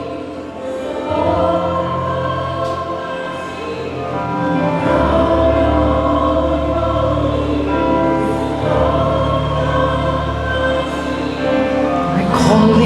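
Slow worship music with choir-like held voices over sustained chords; a deep bass note comes in about five seconds in.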